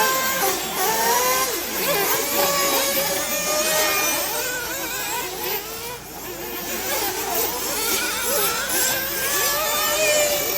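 Several 1/8-scale nitro off-road RC buggies running together, their small two-stroke glow engines revving up and down continually in overlapping high-pitched rises and falls.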